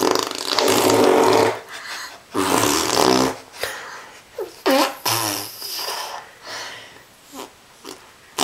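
Baby blowing raspberries against a person's arm, making wet, fart-like buzzing in repeated bursts; the first two are the longest and loudest.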